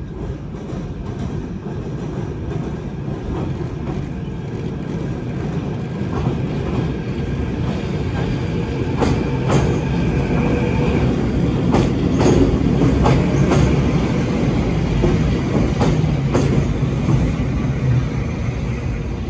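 Hokuriku Railroad 03 series electric train, ex-Tokyo Metro Hibiya Line stock, running across a steel girder bridge. Its steady rumble grows louder as it nears and passes. From about nine seconds in, the wheels clack over the rail joints repeatedly, with a brief high-pitched squeal around ten seconds.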